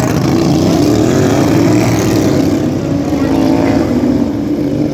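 Several racing lawn tractors' small engines running hard together, their pitch rising and falling as they rev around the track.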